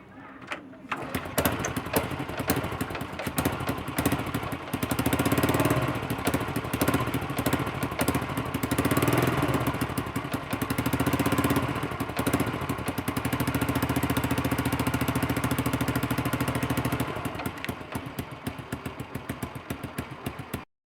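Honda Wave 100S's single-cylinder four-stroke engine starting about a second in and running through its newly fitted stainless-steel exhaust header pipe, revved up a few times before settling back toward idle. The sound cuts off suddenly near the end.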